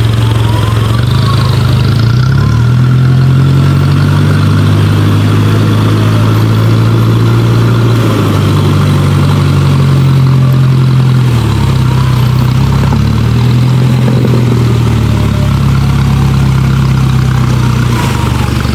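A Suzuki 4x4's engine working off-road, its revs rising and falling several times as the pitch steps up and down.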